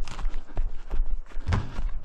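Red 18-inch latex balloons knocking and bumping against each other in the wind: a quick run of hollow knocks, the strongest about one and a half seconds in, over wind rumbling on the microphone.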